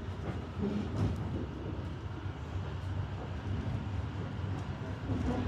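Narrow-gauge train running steadily on the rails, heard from a train pulled by a diesel locomotive, with a few faint clicks about a second in.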